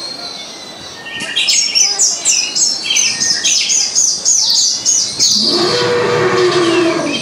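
Birds chirping in quick, repeated high notes, starting about a second in. In the last two seconds a rougher, lower sound takes over.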